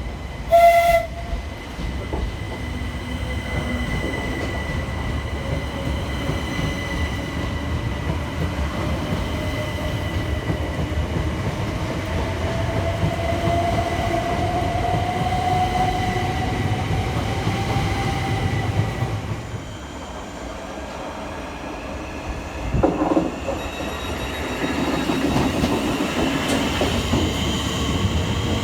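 Electric train running, with a steady rumble and a motor whine that rises slowly in pitch, then the sound drops away and builds again near the end. A brief loud tone sounds about a second in.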